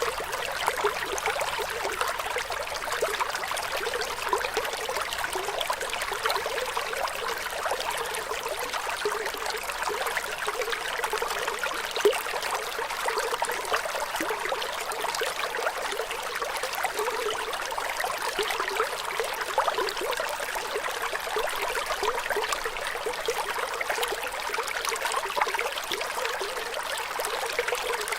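Running water trickling and babbling steadily, with a single brief louder splash near the middle.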